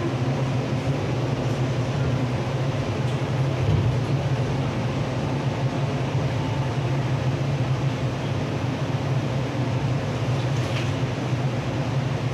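MTR East Rail line R-train electric multiple unit, a steady low rumble that holds even with no sudden changes.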